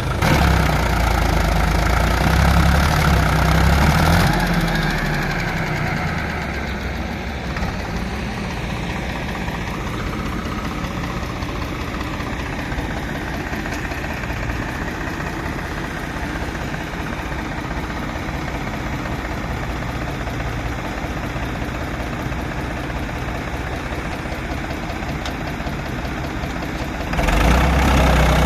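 JCB 3DX Super backhoe loader's diesel engine running, louder and under more load for the first four seconds or so, then settling to a steady lower run, and rising again near the end.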